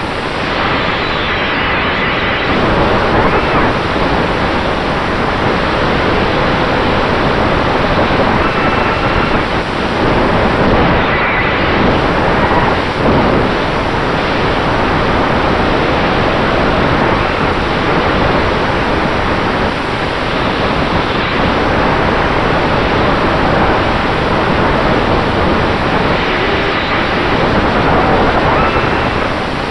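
Onboard audio from a racing quadcopter in flight, with Dragonfly Hurricane 2207 2500KV brushless motors on five-inch Dalprop T5046C propellers. Loud, steady rush of air and propeller wash over the camera microphone. Faint motor whines rise and fall in pitch now and then.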